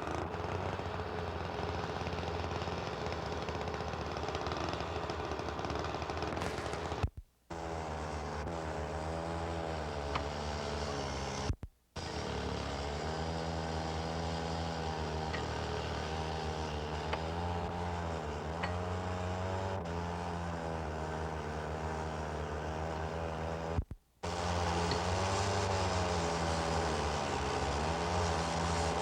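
Motor vehicle engines running, their pitch rising and falling, over a steady low hum. The sound breaks off three times for a moment, at about seven, twelve and twenty-four seconds in.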